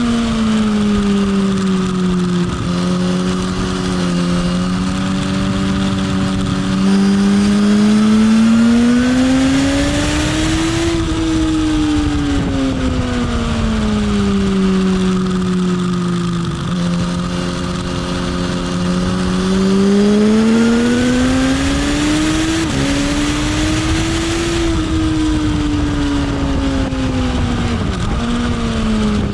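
Motorcycle engine on a race track, heard onboard: its pitch falls as the rider eases off into a corner, holds low and steady through it, then climbs under throttle on the way out. This happens twice. A couple of quick dips in pitch come near the end, and wind rush grows with speed.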